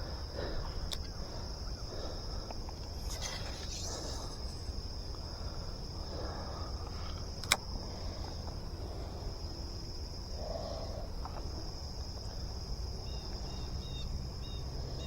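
Steady high-pitched insect chorus, crickets trilling without a break, over a low outdoor rumble. A single sharp click sounds about seven and a half seconds in, and a few short high chirps come near the end.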